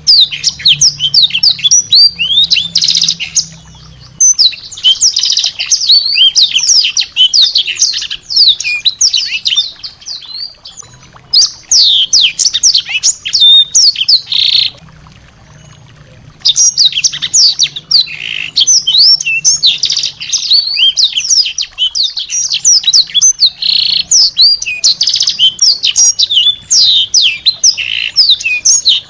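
Small songbird singing in fast bursts of high, quick, downward-sweeping chirps, rough rapid-fire notes, broken by short pauses between phrases.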